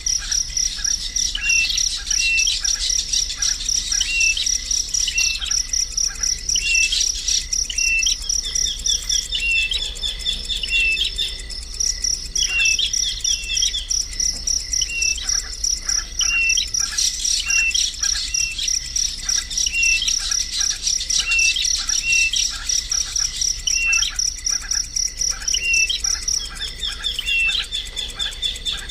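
Short bird chirps repeated about once a second over a steady, high-pitched insect trill.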